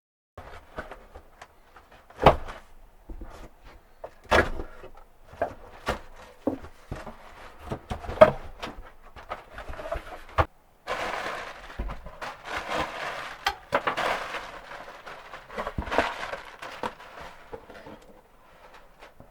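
Knocks and clatter from things being handled, with a stretch of rustling or scraping in the middle.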